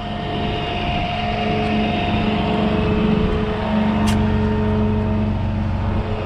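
An engine running steadily at one constant speed, with a single sharp click about four seconds in.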